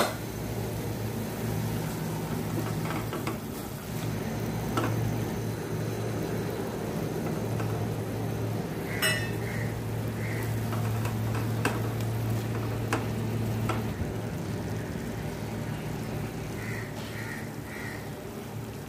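Tomato-onion masala frying in a stainless steel pot while a silicone spatula stirs and scrapes it, with a few sharp taps against the pot, over a steady low hum.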